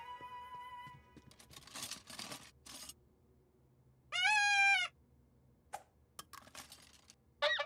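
A whistle blown once in a single steady, shrill blast of under a second, after some brief rustling and clatter. A short toot that rises and falls in pitch follows near the end.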